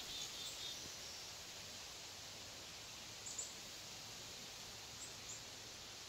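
Faint woodland ambience: a steady low hiss with a few short, high bird chirps.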